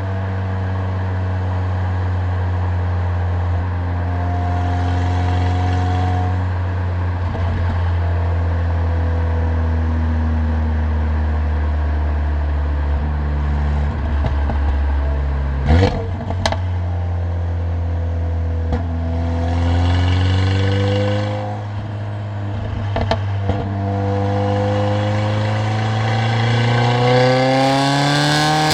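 Mercedes-AMG CLA45's turbocharged four-cylinder engine and exhaust while driving, mostly at a steady cruise. Two sharp cracks come about sixteen seconds in, and near the end the revs climb steadily under acceleration.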